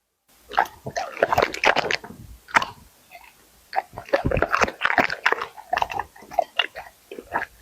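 A dog chewing and biting food, in quick irregular runs of bites with a short pause about three seconds in.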